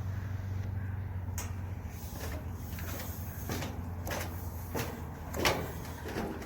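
A series of irregular knocks and clunks, about eight of them, the loudest about five seconds in, over a steady low rumble.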